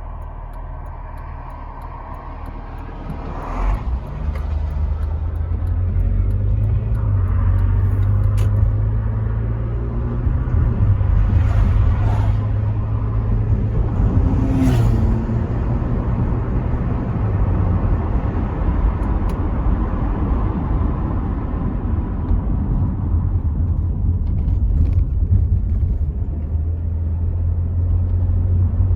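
Rover 75 V6 estate driving, heard from inside the cabin: a steady low engine and road drone with wind noise through part-open windows, growing louder about four seconds in. A few brief knocks or clatters come in partway through.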